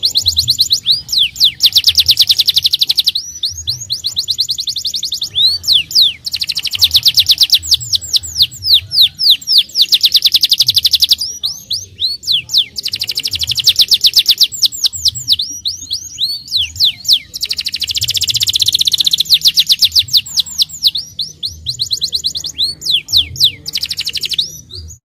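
Domestic canary singing long, fast trills of rapidly repeated notes, one rolling phrase after another with short breaks between them, stopping shortly before the end.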